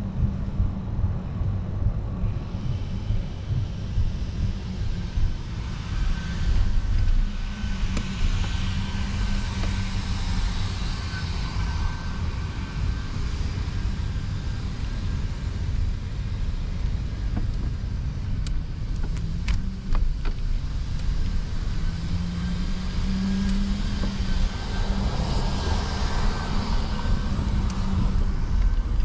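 Road traffic: cars passing over a steady low rumble, swelling louder about eight seconds in and again near the end.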